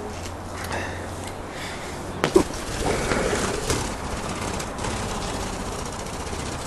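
Soft chatter of caged budgies over a steady low hum, with one sharp click about two seconds in.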